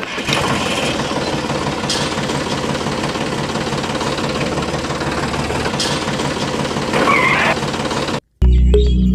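A small motor driving a miniature model flour mill, running steadily with a whirring hum, cuts off abruptly about eight seconds in. Music starts near the end.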